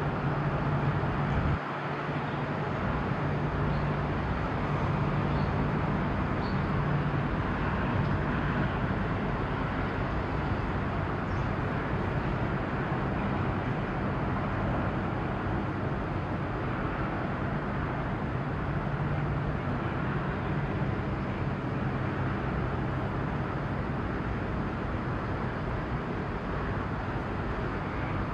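Steady low engine hum over a continuous wash of outdoor noise, without sudden events.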